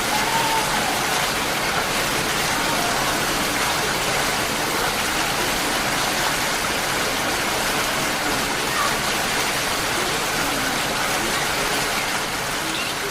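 Heavy monsoon rain falling steadily, a dense, even hiss of rain pouring down.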